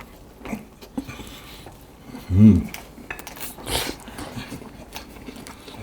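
Tableware and food being handled at the table: scattered light clicks and rustles. A short hummed vocal sound comes about two and a half seconds in.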